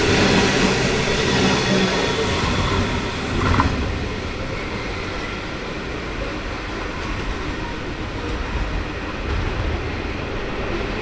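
Loaded coal hopper wagons rolling past on the rails, with a brief sharp noise about three and a half seconds in. The sound then drops and dulls as the last wagon goes by, leaving a low rumble as the train moves away.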